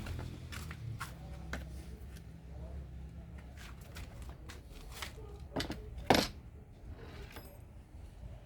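Small objects being handled: scattered clicks and taps, with one louder knock about six seconds in, over a steady low hum.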